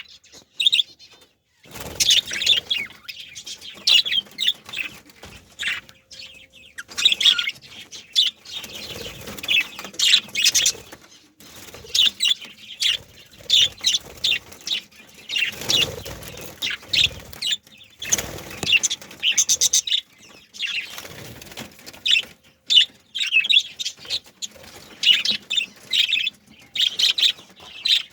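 A group of male budgerigars chirping and chattering continuously, with several bursts of wings flapping.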